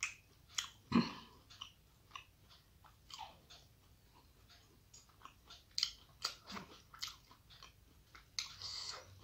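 Close-miked chewing of rice with mashed fish bhorta, with irregular wet mouth clicks and lip smacks; a stronger smack about a second in and a longer wet chewing stretch near the end.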